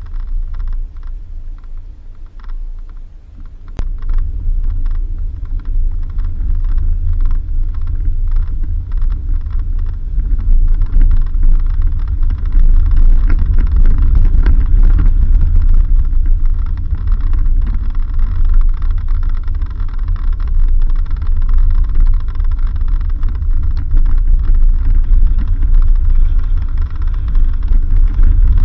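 4x4 vehicle driving along a dirt road: a heavy low rumble with scattered clicks and knocks, growing louder over the first dozen seconds and then holding steady.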